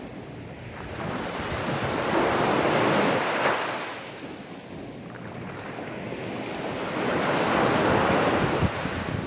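Gentle sea waves washing onto a sandy beach: the surf swells and fades twice, peaking about three seconds in and again near the end.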